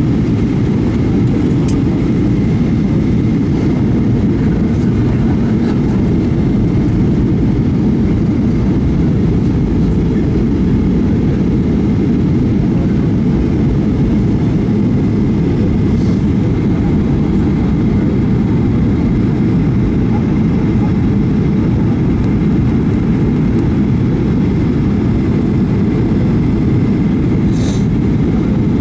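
Steady low rumble of engine and airflow noise inside an airliner's cabin in flight, with a faint steady high tone above it.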